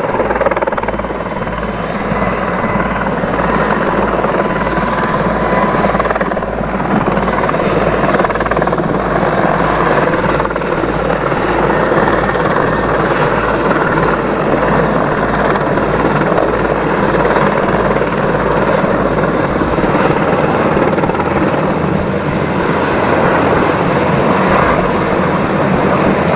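Large helicopter running, its rotor blades beating in a steady low, even pulse over dense engine and rotor noise. The low beat drops away about twenty seconds in, while the rest of the noise carries on.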